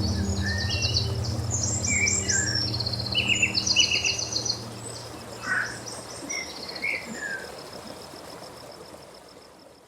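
Wild birds singing short chirps and quick trills over a steady insect trill, with a low ambient music drone underneath that fades out about six seconds in. The whole mix fades down near the end.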